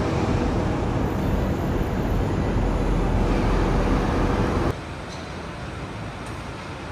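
Street traffic: car engines and tyre noise rumbling steadily, then cutting suddenly to a quieter traffic background about two-thirds of the way through.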